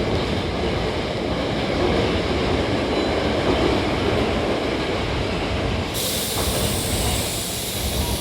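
Hankyu 5100-series electric train departing, its running gear rumbling steadily on the rails. A high hiss starts suddenly about six seconds in and carries on.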